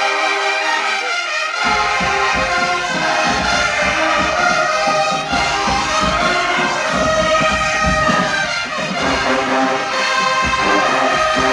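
Marching band brass section playing loudly, trombones and trumpets together. About a second and a half in, drums and low brass come in underneath.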